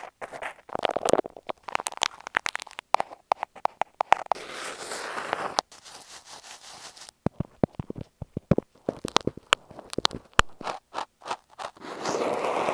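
Close, crisp crackling, clicking and scratching against earphone microphones, with two short stretches of steady rubbing, about four seconds in and near the end.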